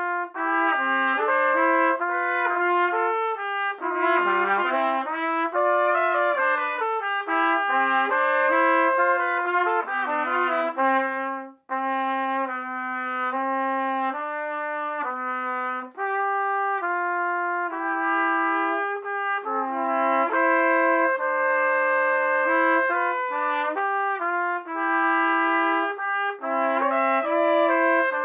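Two trumpets playing a slow duet in two parts, sustained notes moving in harmony, with a short pause for breath about a third of the way through.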